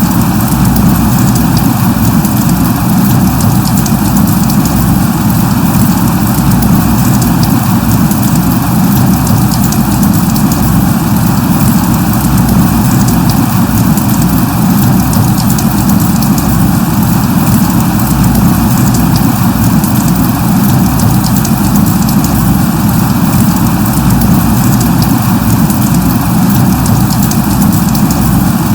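Light rain falling steadily, a dense even hiss with a fine patter of drops through it.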